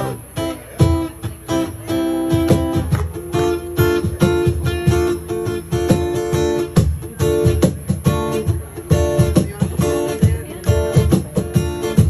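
Band playing live, an instrumental opening led by strummed acoustic guitar over a steady beat.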